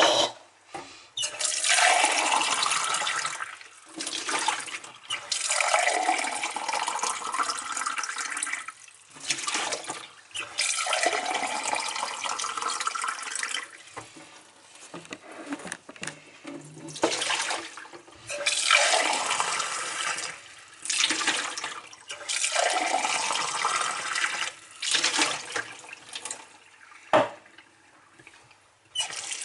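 Water from a tap running into dishes in a sink during washing up. It comes in spells of a few seconds with short pauses between them, and the pitch rises within each spell as a vessel under the tap fills.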